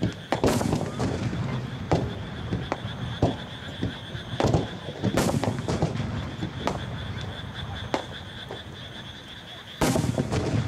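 Aerial firework shells bursting: a string of sharp bangs at irregular intervals, each trailing off in a rumbling echo, with a louder burst near the end.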